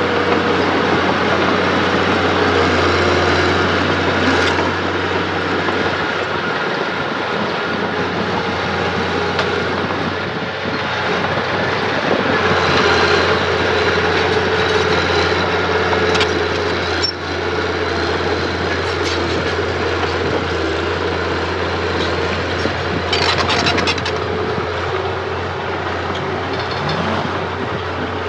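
Earthmoving machinery running steadily: an engine's low drone with a whining tone over it, broken several times by short metallic clanks and rattles.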